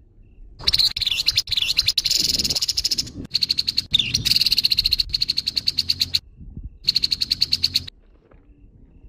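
Grey-headed babbler (tepus kepala abu) giving harsh, rapid rattling chatter calls in several runs. The calls start about half a second in and stop about a second before the end.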